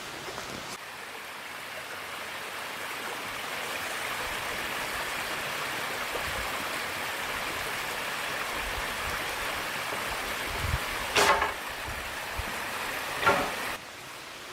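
Steady hiss of water, with three short, sharp sounds in the last few seconds.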